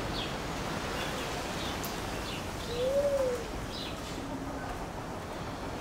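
Birds calling: scattered short high chirps, and one louder low call that rises and then falls about three seconds in.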